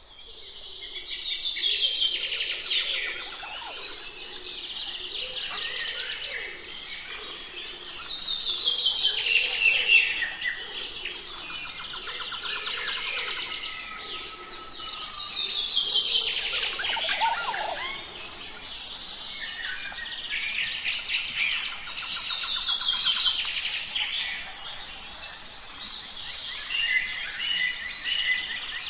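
Birds calling: bursts of rapid, high chirps that fall in pitch, coming back about five times, each swell lasting a couple of seconds.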